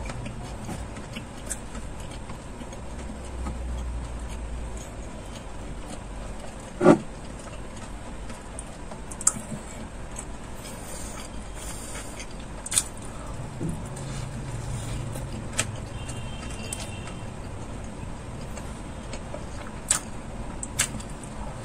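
A person chewing a burger close to the microphone: soft wet clicks and smacks now and then, with one louder mouth sound about seven seconds in, over a steady low hum.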